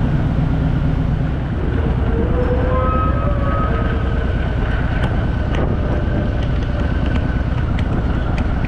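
A vehicle engine running steadily under heavy wind noise on the microphone, with a tone that rises briefly about two seconds in.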